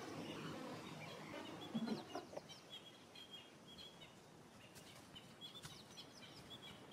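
Wild birds calling faintly in the bush: short, high, quickly falling calls and brief notes, in a cluster about two seconds in and another near the end, over faint background hiss.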